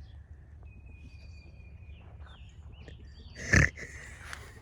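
Faint high chirps and whistles over a low outdoor rumble, with one loud, short animal-like blast about three and a half seconds in.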